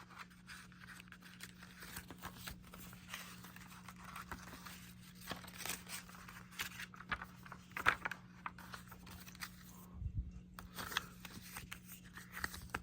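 Faint rustling and crinkling of a paper DVD booklet being handled, with scattered sharper rustles, the loudest about eight seconds in, over a steady low hum.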